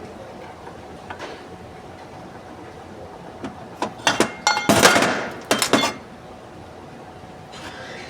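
Metal tools and engine parts clinking and clanking while being handled, in a burst of sharp knocks and rattles about halfway through, over a steady low background.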